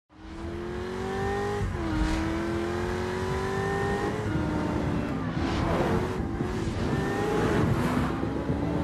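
Sports car engine accelerating hard, its pitch climbing and stepping down at gear changes, once a little under two seconds in and again about four seconds in, then climbing again.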